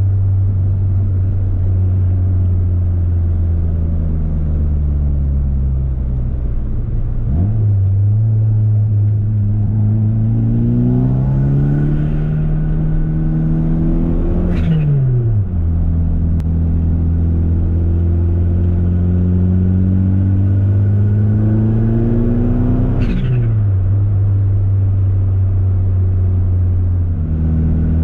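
Turbocharged Mitsubishi Eclipse GSX four-cylinder engine, heard from inside the car, pulling hard under boost twice. Each time its pitch climbs for several seconds and then drops suddenly as the throttle closes, with a short burst of blow-off valve release at the lift. Between the pulls the engine runs at a steady lower pitch.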